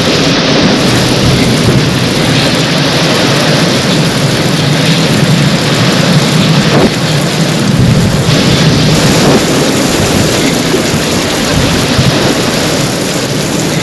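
Heavy rain falling steadily, with a low rumble of thunder beneath it.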